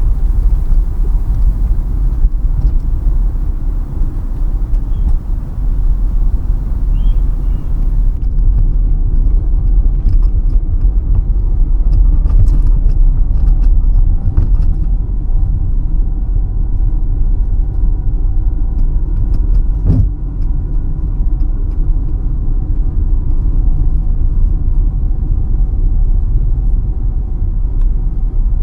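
Car driving along a road, heard from inside the cabin: a steady low rumble of engine and tyres on the road surface. A single sharp knock about two-thirds of the way through.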